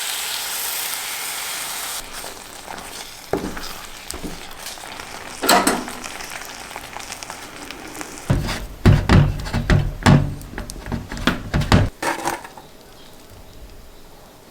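Food sizzling in a hot pan, which stops abruptly about two seconds in. A few scattered knocks follow, then a run of heavy thuds and clatter later on, the loudest part.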